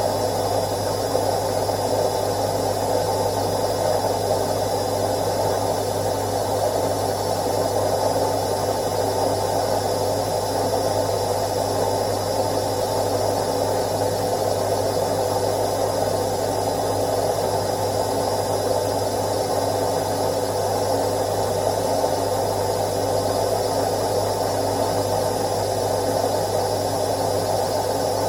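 Indesit IWC71252 front-loading washing machine running its daily quick wash programme: a steady, even whirring hum with a low hum underneath, unchanging throughout.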